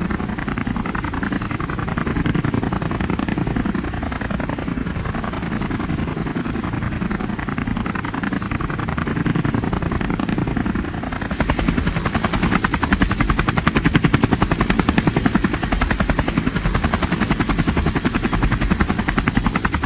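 Helicopter flying, its rotor blades beating in a rapid, steady chop. The beat grows louder and sharper about eleven seconds in.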